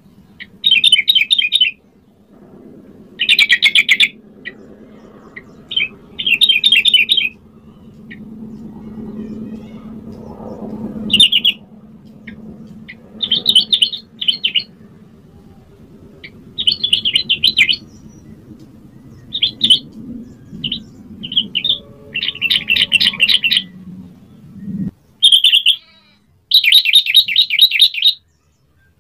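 Yellow-vented bulbul singing: a string of short bursts of fast, rattling chattering phrases with brief pauses between them, the longest phrases near the end.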